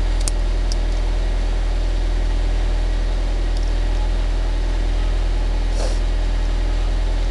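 Honda Civic engine idling, heard from inside the cabin as a steady low drone, with a few faint clicks.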